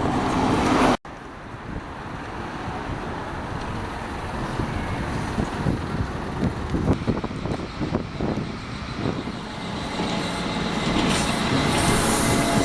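A heavy vehicle running close by, a steady noise with some scattered knocks that grows louder toward the end. The sound breaks off sharply about a second in and starts again.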